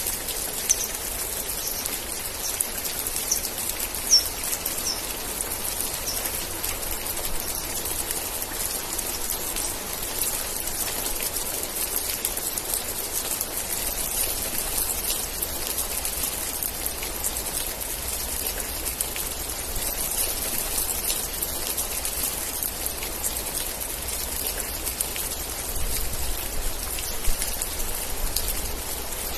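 Steady rain falling: an even hiss of drops with a few louder single drips standing out.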